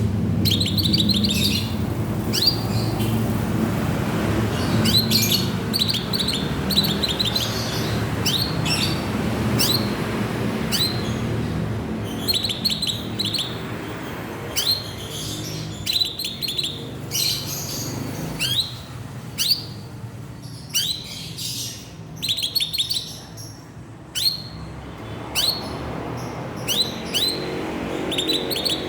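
Cucak ijo (greater green leafbird) singing: repeated short bursts of quick, sharp, down-slurred chirps, one burst every second or so, over a steady low hum.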